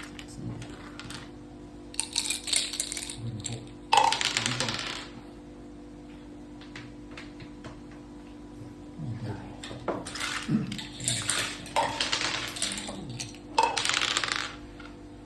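Hard mak saka (Thai backgammon) dice and pieces clattering and clicking on the board in several bursts, over a steady low hum.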